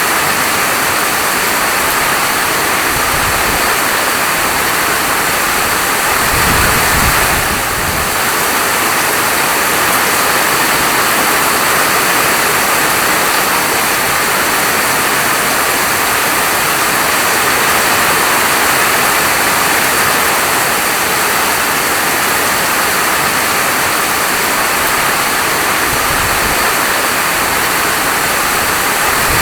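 Steady heavy rain falling, an even dense hiss. A deeper rumble swells up briefly three times: a few seconds in, around seven seconds, and near the end.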